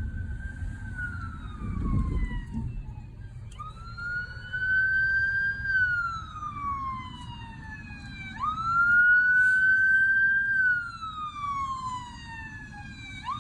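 Emergency vehicle siren wailing: each cycle jumps up sharply, holds, then slides slowly down in pitch, repeating about every five seconds, over a low rumble.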